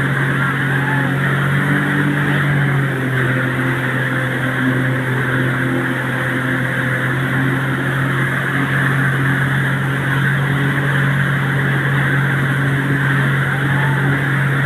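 An engine running at a steady speed, with a constant low hum, under a loud rushing noise of wind or water.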